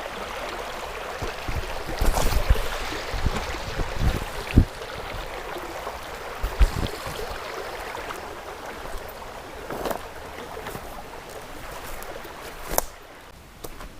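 Creek water running steadily, with a scatter of low thumps between about two and seven seconds in and a single sharp click near the end.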